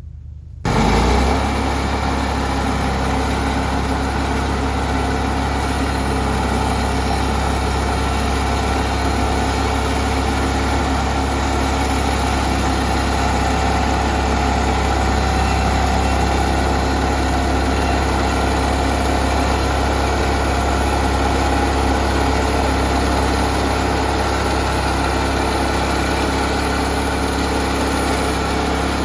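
Engine of a Norwood LumberPro HD36 portable band sawmill running steadily. It starts abruptly about half a second in.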